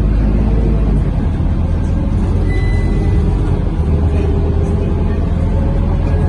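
Scania K230UB Euro V city bus's five-cylinder diesel engine running steadily under way, heard from inside the cabin, a continuous low drone mixed with road noise.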